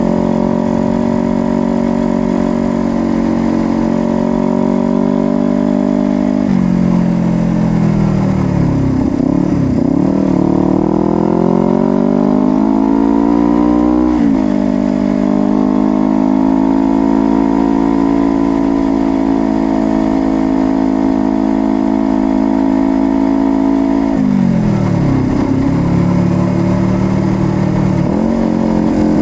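Honda CBR250RR motorcycle engine and exhaust under way, holding a steady note. About six seconds in, the throttle closes and the revs fall away, then climb again to a sharp drop at a gear change, followed by a long steady cruise. The revs fall again near the end, with another quick rise and drop.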